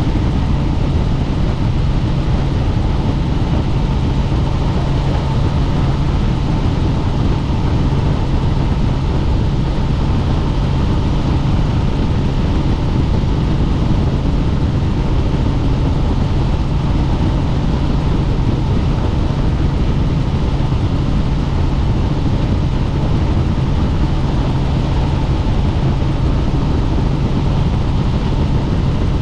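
Helicopter in cruise flight: a loud, steady drone of rotor and engine, with a constant low hum that does not change.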